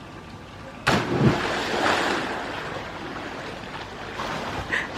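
Waves breaking: a sudden crash about a second in, then a steady rush of surf.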